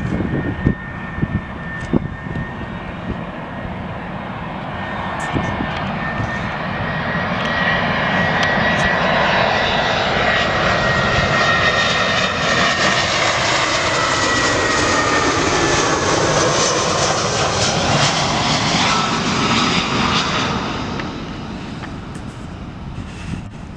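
Jet airliner passing by, its engine noise building up, staying loud for about twelve seconds, then fading, with a thin whine that slowly falls in pitch as it goes past.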